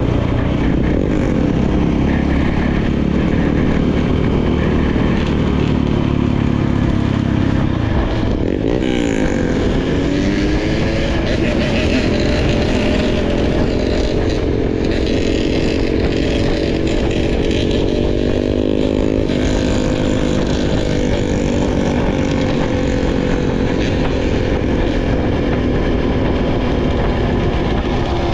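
Dirt bike engine running while riding, its pitch dropping and then climbing again about nine seconds in, with further changes in engine speed later on.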